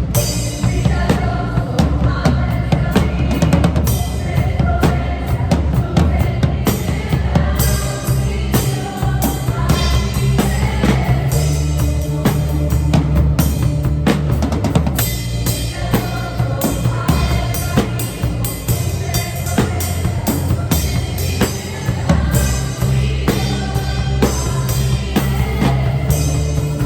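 Acoustic drum kit played along to a backing track: kick, snare and cymbal hits in a steady groove over sustained pitched music, picked up by a phone's microphone in the room.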